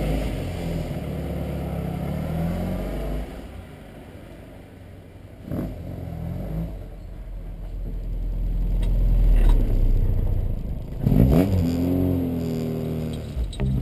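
1972 Mini Clubman Estate's A-series four-cylinder engine pulling away, fading as the car drives off. Then a low rumble builds, and near the end the engine runs louder with its pitch rising and falling.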